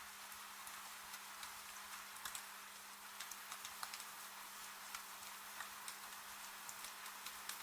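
Steady rain hiss with scattered drops ticking irregularly, over a faint steady low hum.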